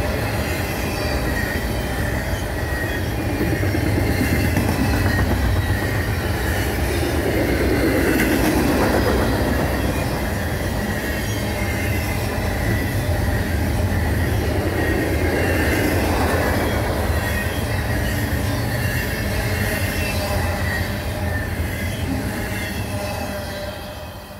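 Double-stack intermodal freight cars rolling past: a steady rumble of steel wheels on rail with a faint high squeal. It fades away near the end as the last cars go by.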